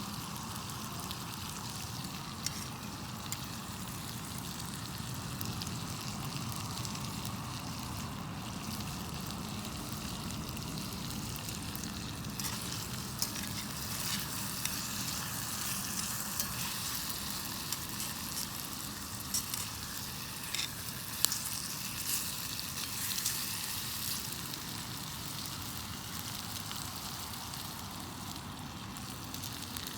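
Food sizzling and frying in a pan over a campfire, a steady hiss that grows louder in the middle, with scattered sharp clicks.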